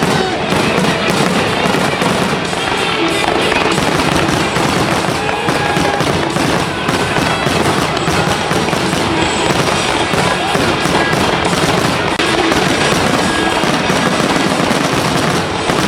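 Fireworks going off in a dense, continuous barrage of crackles and bangs, over music.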